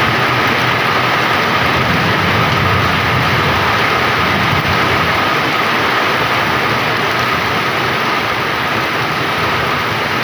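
Heavy rain pouring down steadily, a dense unbroken hiss of rain on surfaces.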